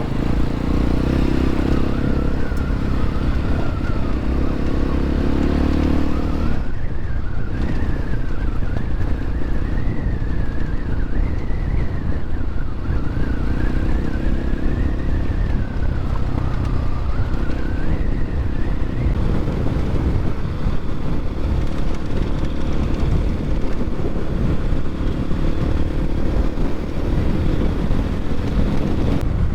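Templar X 250 dirt bike engine running while riding, its pitch rising and falling with the throttle, with a brief let-off about six and a half seconds in.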